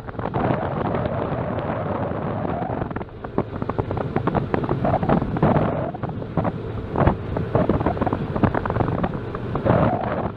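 Wind buffeting the microphone: a rough, gusty rumble that rises and falls unevenly.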